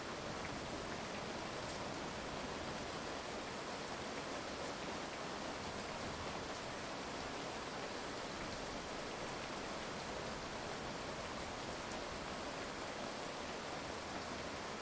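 Heavy rain falling steadily, an even hiss with faint scattered drop ticks and no thunder.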